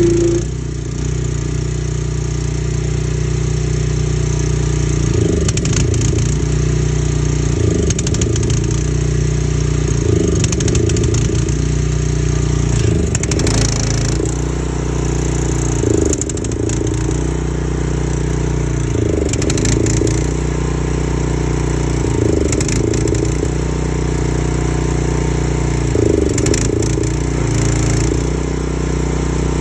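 Engine of a 4 gpm pressure washer idling roughly: a steady running hum that stumbles and dips every two to three seconds, the rough idle the owner is trying to diagnose.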